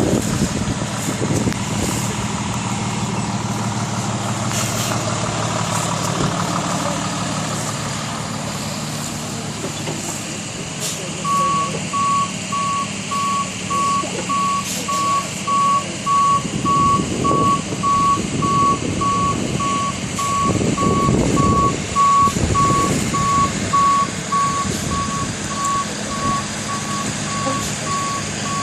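Tow truck's diesel engine running, then from about eleven seconds in its reversing alarm beeps steadily at one pitch as it backs up.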